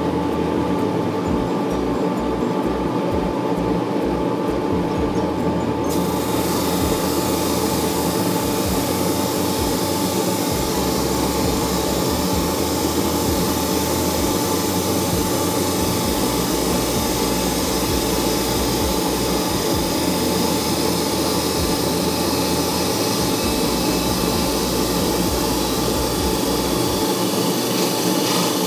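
Conveyor-fed drum sander running steadily; about six seconds in, the abrasive drum starts cutting the back of a wooden ukulele headstock, adding a steady rasping hiss over the motor hum.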